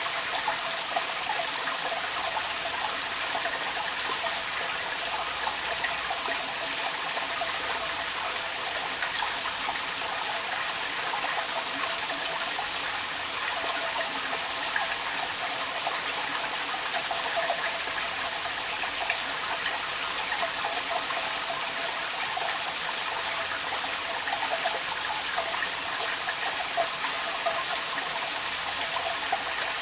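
Rain falling and water running and splashing out of a downpipe: a steady rushing trickle with scattered drips and patters.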